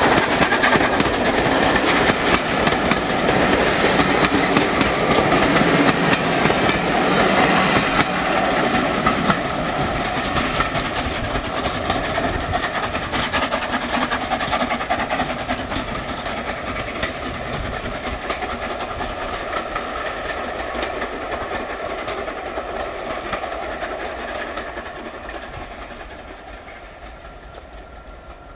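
Steam-hauled train of passenger coaches rolling past, its wheels clicking over the rail joints. It fades steadily as the train runs off into the distance.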